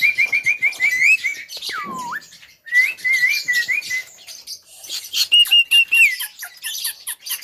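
Javan myna calling: quick runs of short squeaky chirps, a whistle that slides down in pitch about two seconds in, then more chirp runs with clicks and rattles between them.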